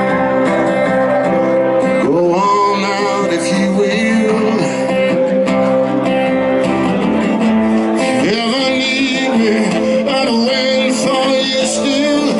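A live blues band plays between sung lines of a song. Held chords sit under a lead line that slides up twice and wavers.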